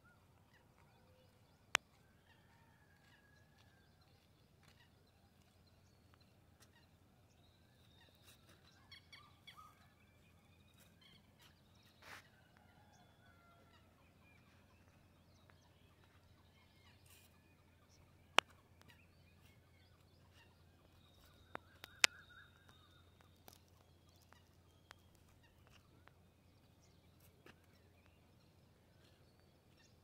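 Faint, scattered short bird calls over a low steady hum, with a few sharp clicks that stand out as the loudest sounds.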